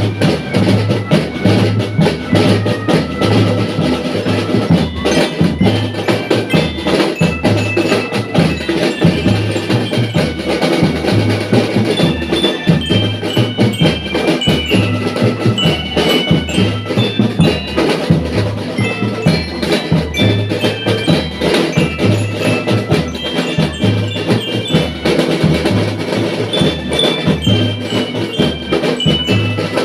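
School drum band playing: drums keep a steady marching beat under a melody of short bright notes on marching glockenspiels.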